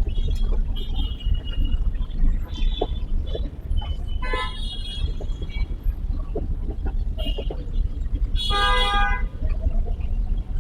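Steady low rumble of a car driving through traffic, with other vehicles' horns honking several times; the loudest is a longer honk about eight and a half seconds in.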